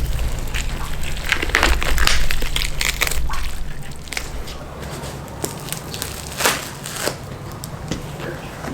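Irregular crunching and crackling of food being handled, busiest in the first three seconds and sparser after, over a low steady rumble that fades out about three and a half seconds in.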